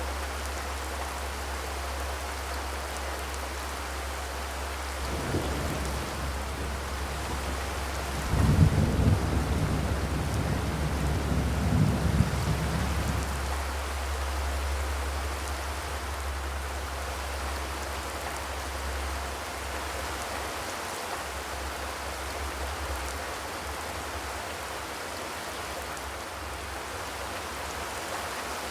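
Steady rain drumming on a zinc roof. A low rumble swells about five seconds in, loudest between about eight and thirteen seconds, then fades back under the rain.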